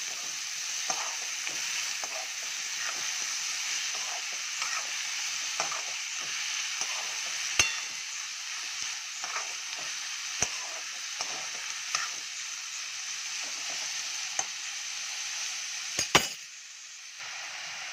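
Chopped tomatoes and onions sizzling in hot oil in a metal kadhai while a metal spoon stirs and scrapes them, sautéing. A few sharp knocks of the spoon against the pan stand out, two of them near the end.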